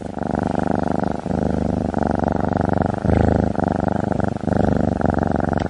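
A domestic cat purring loudly and steadily, the purr rising and falling in waves with its breathing.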